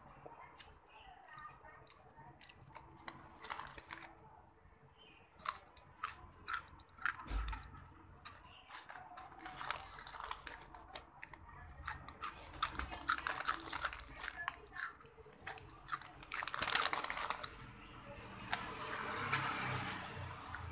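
A crunchy snack being bitten and chewed close to the microphone: a string of sharp crunches and clicks, sparse at first, then denser and louder through the second half.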